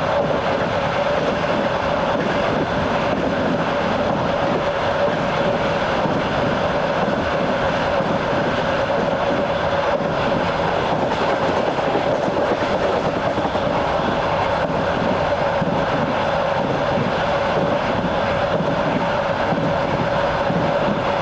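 Passenger train running steadily along the track, heard on board: even wheel-on-rail rumble and clatter with a constant mid-pitched hum over it.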